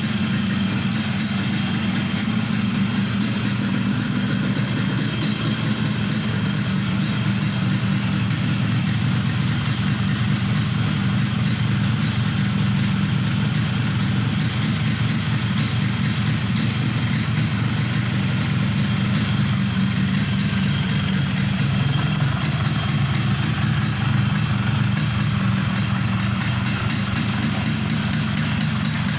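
Yamaha RX-King's single-cylinder two-stroke engine idling steadily through its original exhaust, with no revving.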